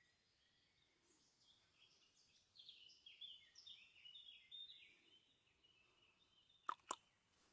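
A songbird singing faintly, a string of quick high chirps, then two sharp clicks close together about a second before the end.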